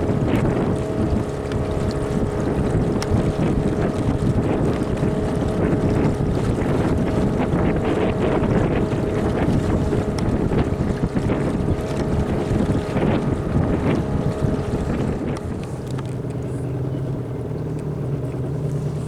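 Small motorboat's engine running under way, with water noise and wind buffeting the microphone. About sixteen seconds in the engine note drops lower and quieter as it throttles back toward idle.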